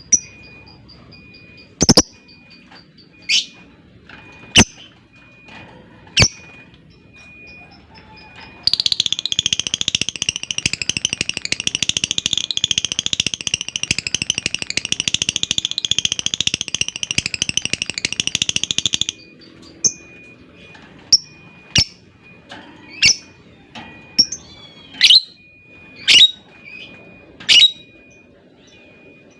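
Lovebird calls: a few sharp, separate shrieks, then a long unbroken rapid chattering trill (the 'ngekek panjang') lasting about ten seconds. Short sharp calls follow at about one a second near the end.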